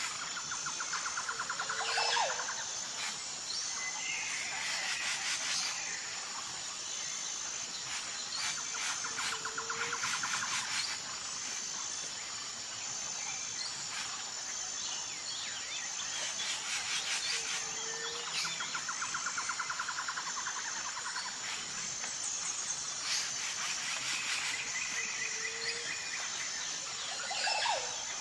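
Nature ambience of birds and insects. A steady, high insect drone pulses in the background while bird calls and a buzzy trill come round again about every eight seconds, each cycle with a short lower note.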